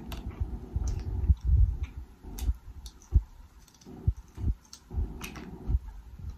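Close-miked chewing of seafood: irregular soft low thumps of the jaw working, with short wet clicks and smacks from the mouth.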